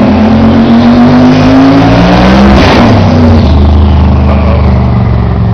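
Twin-turbo Road Runner drag car engine, loud at hard throttle. Its note climbs steadily, drops abruptly about two and a half seconds in, then holds a lower, steady note.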